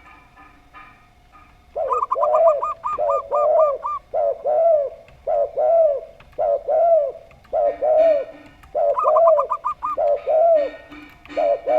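Two kinds of dove calling together: zebra doves (perkutut) giving runs of rapid, short, high cooing notes, and spotted doves (derkuku) giving repeated arching 'kuk' coos in twos and threes, lower in pitch. The calling starts nearly two seconds in and carries on steadily, with a second run of rapid high notes near the end.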